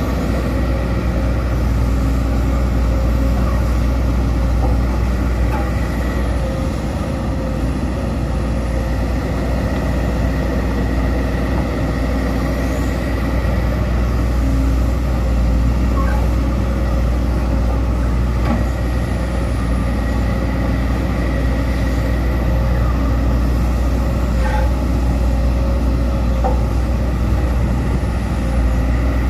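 Sumitomo SH210 hydraulic excavator's diesel engine running steadily, with a deep rumble and a constant tone over it.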